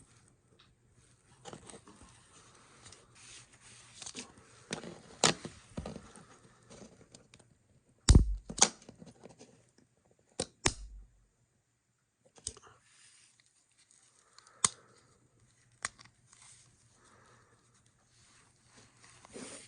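Hands working a small plastic gas match lighter apart: clicks, taps and rustles of its parts being handled, with a few sharp knocks about eight and ten seconds in.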